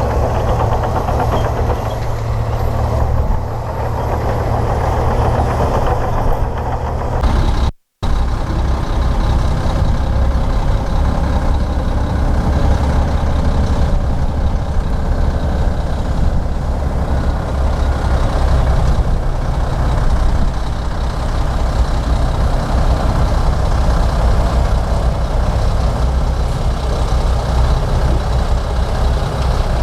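Komatsu D58P crawler bulldozer's diesel engine running steadily with a heavy low rumble. The sound cuts out for a split second about eight seconds in, then the engine carries on.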